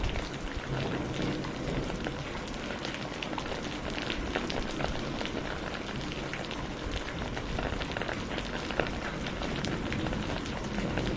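Steady rain falling, a constant hiss dotted with many separate drops ticking.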